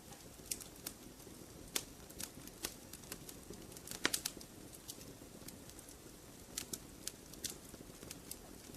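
Wood campfire crackling: irregular sharp pops and snaps over a low, steady rush of flame, with a louder cluster of pops about four seconds in.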